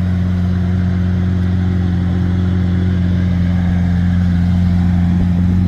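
The Lamborghini Aventador SuperVeloce's 6.5-litre V12 idling steadily through its Gintani F1 exhaust, an even low hum that does not change.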